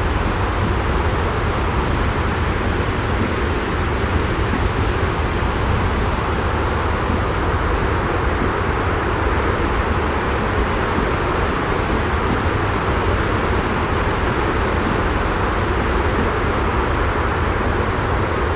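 Steady white-noise sleep track: an even, unchanging hiss over a deep rumble.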